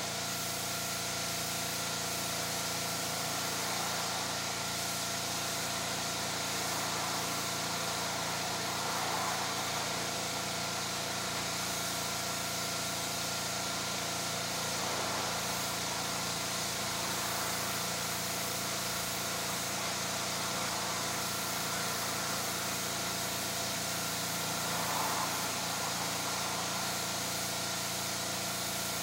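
A small engine running steadily at a constant speed, with no revving or stalling.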